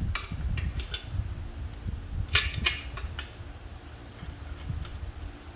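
Metal clinks and taps of hand tools, a socket extension and bolts being picked up and fitted, under a low rumble of handling. The clicks come in small clusters near the start and about two to three seconds in.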